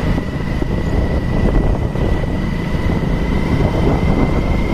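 Wind buffeting the rider's microphone on a moving motorcycle, a heavy fluttering rumble with the bike's running noise under it and a thin steady high whine throughout.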